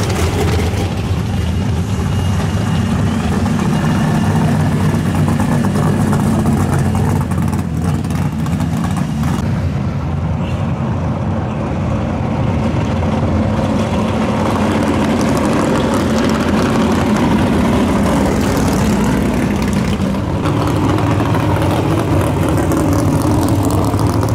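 Drag race car engines running at low speed through the pits: a loud, steady, rough engine rumble.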